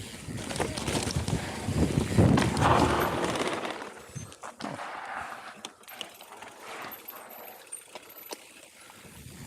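Mountain bike rolling over a dirt trail: tyre noise and rattling knocks from the bike, louder for the first few seconds and then quieter.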